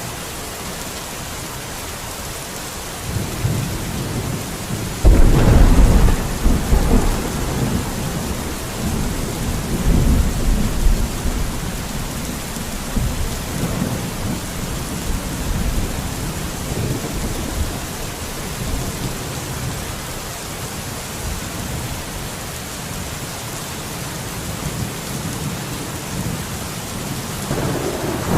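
Steady rain hissing, with thunder: a low rumble builds about three seconds in, a loud clap comes about five seconds in and rolls away over several seconds, and another rumble swells near the end.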